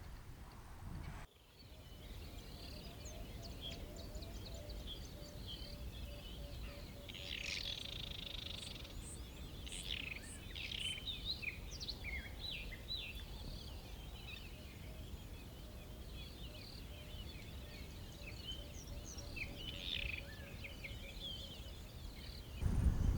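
Several birds chirping and trilling in the bush, with an even run of low, rapidly repeated notes underneath and a steady low rumble. The low noise gets louder near the end.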